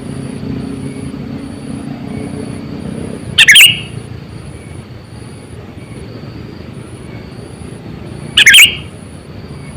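Sooty-headed bulbul (kutilang) giving two short, loud calls about five seconds apart, over a steady low background hum.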